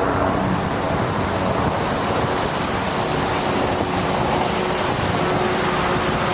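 Steady rushing noise of wind buffeting the microphone on a moving bicycle, mixed with the hiss of tyres on wet pavement in the rain.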